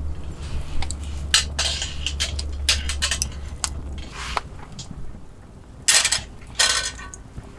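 Metal cooking utensils clinking and scraping against cookware at a camp cooking setup, with scattered light clicks and two louder scrapes near the end.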